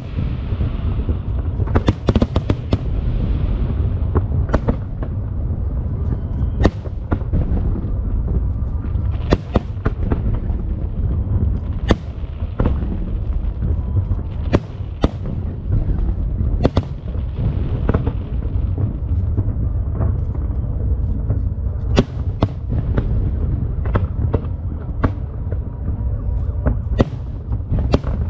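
Aerial fireworks display: sharp bangs of shell bursts every second or so over a constant deep rumble of overlapping booms. A hissing crackle rises a few times, near the start, around three seconds in and again past the middle.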